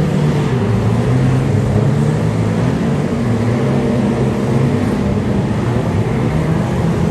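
Engines of 2-litre saloon stock cars running steadily while racing on the oval, a continuous engine drone that shifts a little in pitch.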